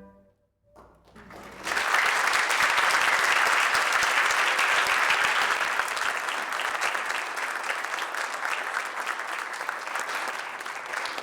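The last held note of flute music dies away, and after about a second and a half of quiet an audience breaks into steady applause, which eases off a little in the second half.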